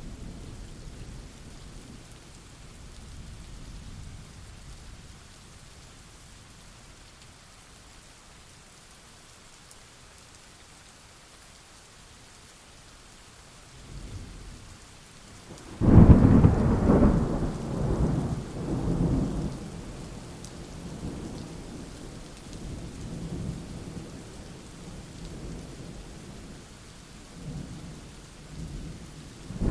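Steady rain with thunder: a low rumble fades away early, then about halfway through a sudden loud thunderclap breaks and rolls on in several swells for a few seconds, with fainter rumbles after it and another clap starting near the end.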